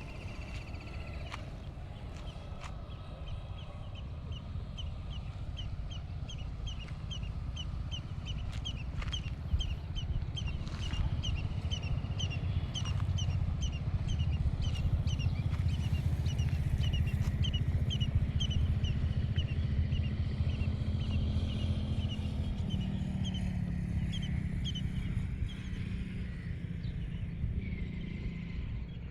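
A car driving, its engine and road rumble growing louder through the middle and easing off near the end, with a short high chirp repeating about two to three times a second through most of it.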